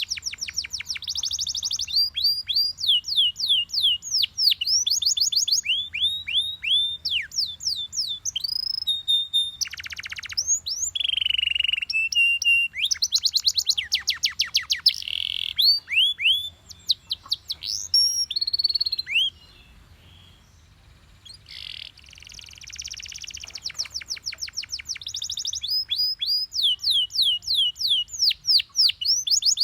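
Belgian canary singing, a long song of rapid trills made of quickly repeated falling notes, broken by a short pause about two-thirds of the way through before it starts again.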